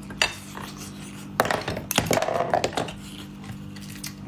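Close-up eating sounds: a click near the start, then about a second of wet slurping and mouth noise from about a second and a half in as a sauce-dipped oyster is eaten.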